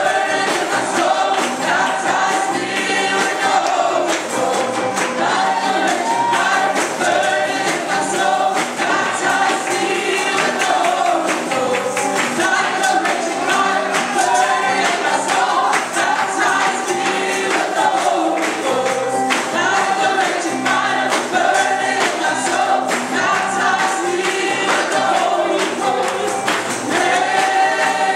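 Gospel worship song: a choir singing together over musical accompaniment.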